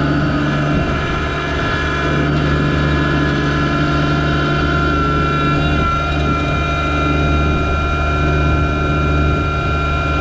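Yanmar SA324 compact tractor's three-cylinder diesel engine running at a steady speed.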